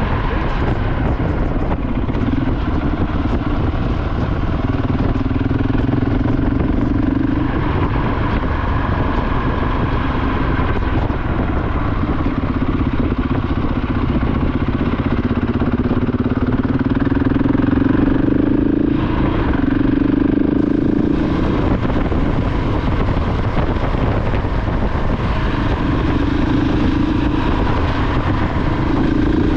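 KTM 690 Enduro R's single-cylinder engine running under way, its note rising and falling with the throttle several times, over steady wind and road rumble.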